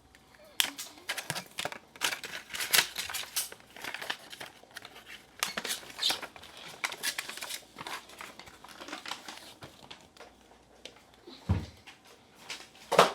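Paper rustling and scratching in irregular short strokes as it is handled and drawn on, with a low thump about a second and a half before the end.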